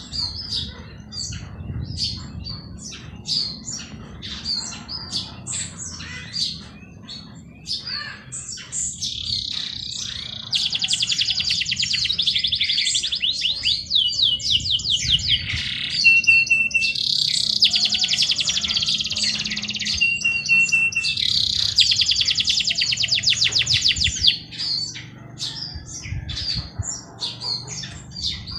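Songbirds chirping in quick, short, high notes. About ten seconds in, long, rapid trilling songs take over, three of them in close succession, each lasting a few seconds, before the short chirps return near the end.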